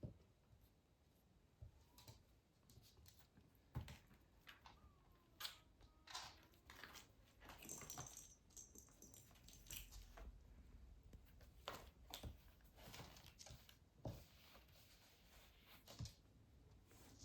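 Faint scattered rustling, light taps and crinkles, typical of small kittens scrambling about and batting at paper and toys.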